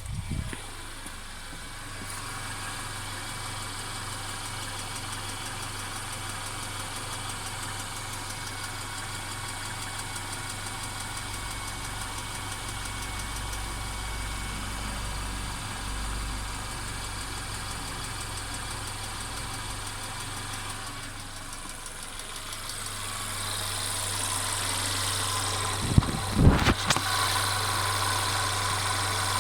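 Mercedes-Benz CLA 250's turbocharged four-cylinder engine running steadily with a continuous rattle, which the owner hears as an abnormal noise. The engine sound grows louder toward the end, and a few sharp thumps come near the end.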